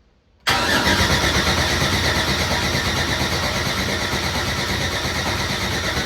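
Starter motor cranking a freshly built race engine. It cuts in abruptly about half a second in and keeps turning the engine over in an even, fast rhythm without it firing: the ECU is getting no crank signal.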